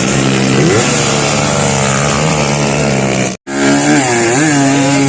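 Trail motorcycle engine running and revving, its pitch rising and falling; the sound drops out for an instant a little over three seconds in.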